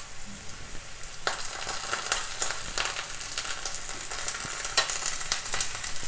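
Button mushrooms and onions frying in hot mustard oil in a kadhai, sizzling steadily while being stirred, with frequent clicks and scrapes of the stirring utensil against the pan.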